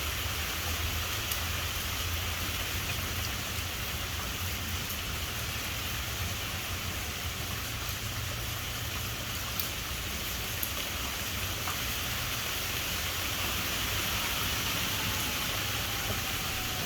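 Steady rain falling, with a constant low rumble underneath and a few faint drop ticks.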